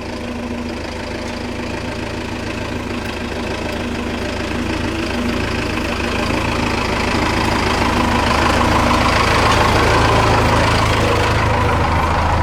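Pickup truck's Cummins 4BT four-cylinder turbodiesel running as the truck drives slowly along a dirt track, growing gradually louder.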